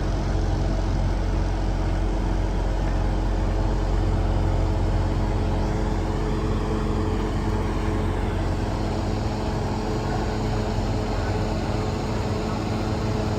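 Semi-truck diesel engine idling: a steady low hum that holds an even pitch throughout.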